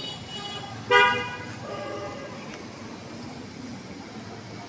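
A single loud, short horn toot about a second in, over steady background noise.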